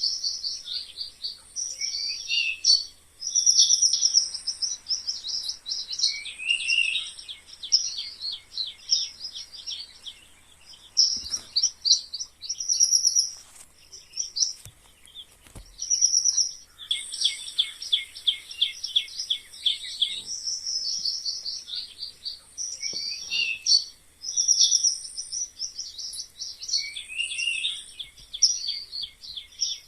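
Mice squeaking: rapid runs of high-pitched squeaks and chirps, coming in bursts of a second or two with short pauses between them, some ending in a falling squeak.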